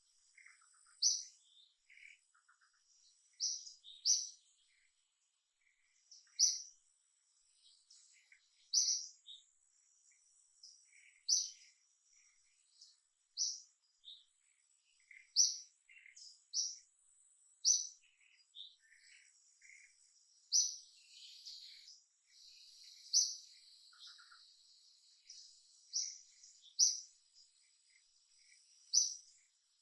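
Birds chirping: one short, high call repeated every second or two, with fainter chirps from other birds in between.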